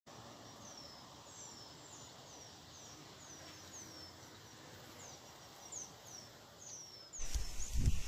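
A small bird repeats short, high calls, each falling in pitch, about two a second, over a soft background hiss. About seven seconds in, loud gusting wind starts buffeting the microphone.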